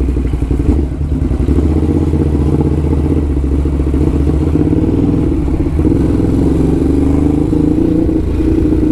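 Ducati Hypermotard SP's L-twin engine running through SC Project exhausts while under way. The revs climb steadily over the last few seconds.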